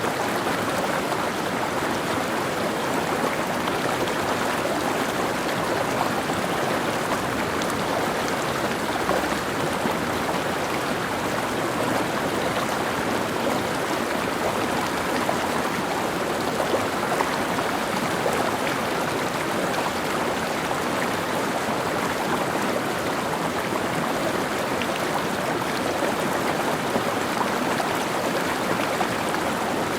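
Mountain stream flowing over rocks: a steady, even rush of water with no pauses or changes.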